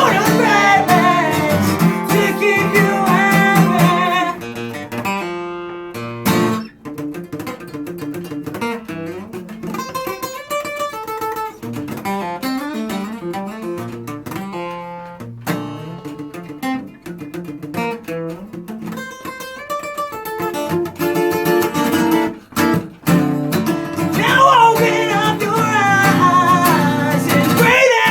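Acoustic guitar playing an instrumental passage of plucked notes, with singing over it for the first few seconds and again near the end.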